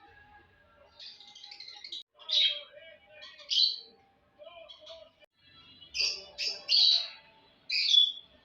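Budgerigar chirping: a little soft chatter, then loud, short, high chirps, several in quick succession near the end.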